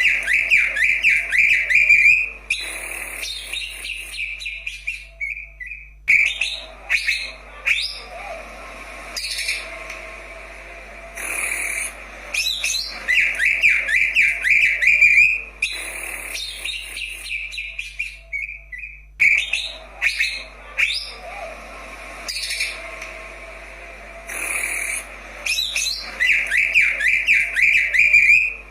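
Greater green leafbird (cucak ijo) singing: a busy run of whistled chirps and sharp notes, with a bright, rapid trill phrase that comes back about every thirteen seconds.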